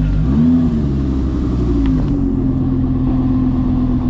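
Car engine idling close by. It gives a short blip of revs about half a second in and a smaller one near two seconds, then settles back to a steady idle.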